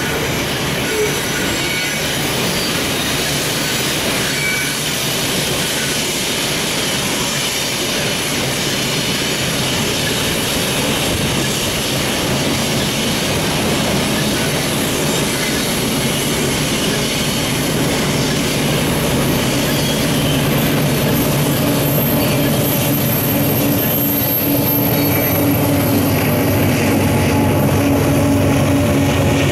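Freight train of covered hopper cars rolling along a curve, a steady rumble of wheels on rail that grows slowly louder. A few steady low tones come in after about twenty seconds.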